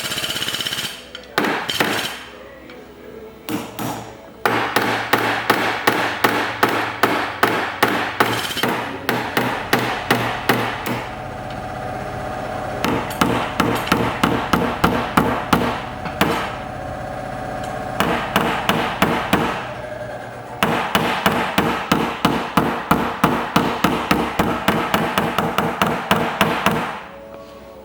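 Body hammer tapping dents out of a car's sheet-metal body panel in quick, even strokes, about three a second, in long runs broken by short pauses. It starts with a few scattered blows.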